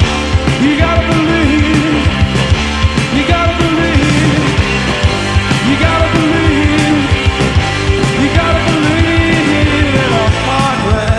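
Rock band playing live: a steady drumbeat under a melodic instrumental line.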